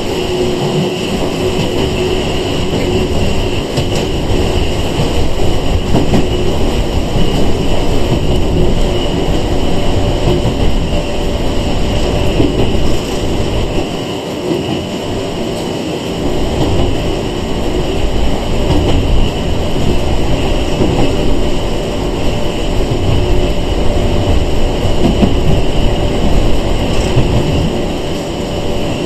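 Interior running noise of a Sangi Railway 101 series electric train, a former Seibu 401 series car, rolling along the line: a steady rumble of wheels on rail, with a faint steady tone riding on top.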